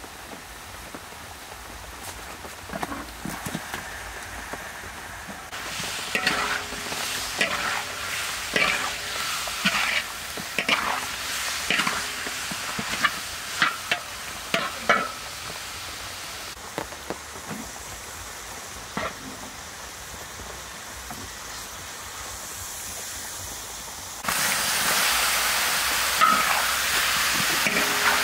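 Fish pieces frying in oil and curry paste in a wok, a metal spatula scraping and clacking against the pan many times as they are stirred. Later it goes quieter, then a louder, steady sizzle starts suddenly as sliced green banana cooks in the hot wok.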